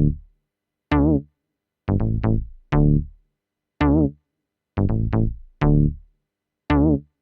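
Electronic music: short synthesized notes with a wavering pitch, each dying away quickly, in a sparse rhythm about once a second, some in quick pairs or threes, with dead silence between them.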